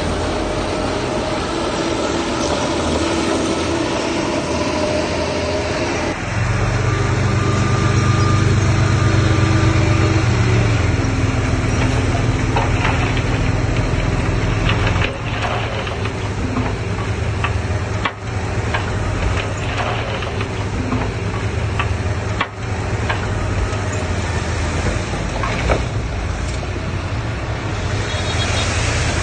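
Heavy diesel engine of earthmoving machinery running steadily, then working harder and louder about six seconds in before easing slightly, with a few brief knocks later on.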